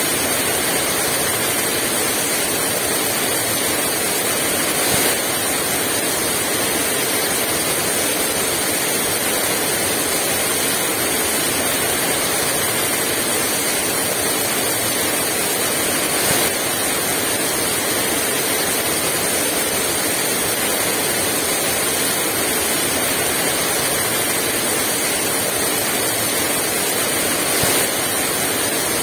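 Heavy rain pouring steadily, an even dense hiss with no wind.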